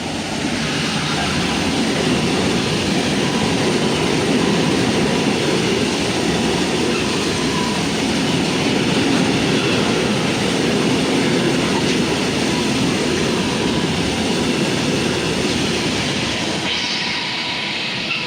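A train running on the rails: a loud, steady rumble and rush of wheels and running gear, with a brighter hiss joining near the end.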